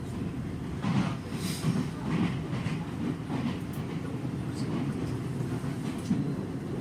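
Nankai 6250 series electric train running at speed, heard inside the car: a steady rumble of wheels on rail with uneven knocks and clatter over the track.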